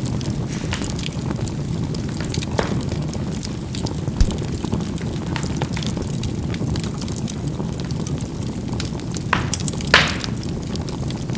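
Charcoal burning in a fireplace: a steady low rush of the fire with scattered sharp pops and crackles as the charcoal bursts, the loudest pop about ten seconds in.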